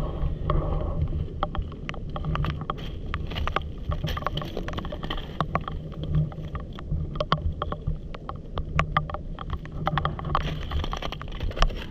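Irregular sharp clicks and taps of stones, brick and pottery fragments knocking together as they are turned over by hand on a muddy river foreshore, over a steady low rumble of wind on the microphone.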